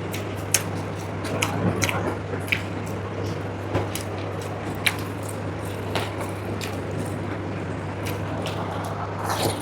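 Close-miked eating: wet chewing, lip smacks and short, sharp mouth clicks at irregular moments, over a steady low hum.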